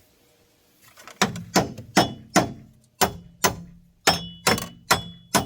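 Hammer striking a socket that has jammed on a nut, about ten sharp metal-on-metal blows at two to three a second, each with a short ring, knocking the socket loose. The blows start about a second in.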